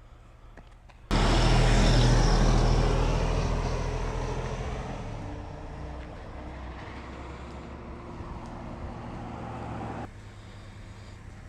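A loud passing vehicle. Its engine hum and rushing noise start suddenly about a second in and fade away over several seconds, then cut off abruptly near the end.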